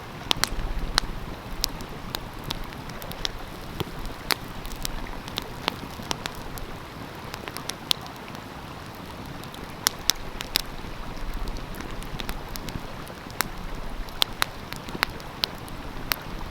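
Wood fire crackling, with irregular sharp pops and snaps, over the steady rush of a flowing stream.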